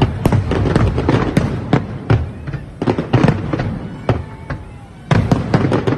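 Aerial fireworks display: a rapid, dense run of bangs and crackling reports, easing off about four seconds in and bursting back strongly just after five.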